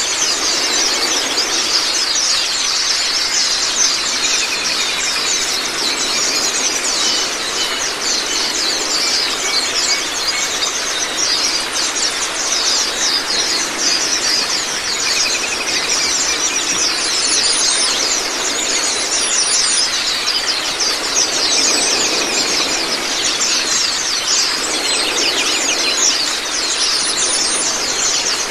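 White-eyes (Zosterops) singing in a continuous, rapid high-pitched chatter of many fast chirps, over a steady rush of running water.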